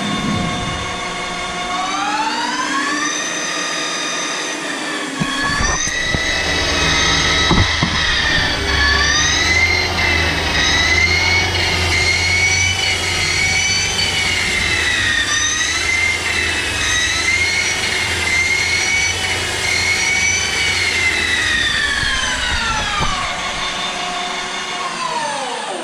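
CNC lathe spindle running up to speed with a rising whine, then turning a plastic roller dry while the tool takes a cut along its outside diameter, the whine wavering over a low rumble. Near the end the whine falls as the spindle slows to a stop.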